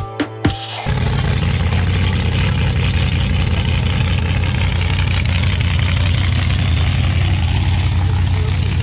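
Background music cuts off about a second in, giving way to a vehicle engine idling steadily.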